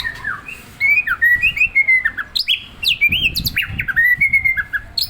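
White-rumped shama singing a quick, varied run of clear whistled notes and chirps, which grows loud and dense about a second in.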